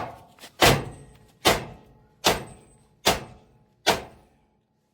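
A steady series of sharp, heavy thuds, about one every 0.8 seconds, each ringing out briefly before the next, with near silence between them.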